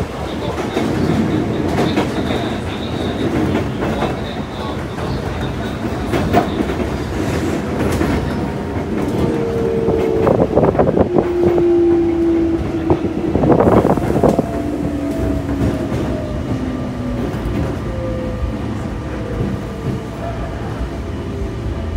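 Sotetsu 8000 series electric train running, heard from inside the passenger car: a steady wheel-and-rail rumble with a few sharp clacks over rail joints around the middle. From about halfway on, a motor whine slowly falls in pitch as the train slows.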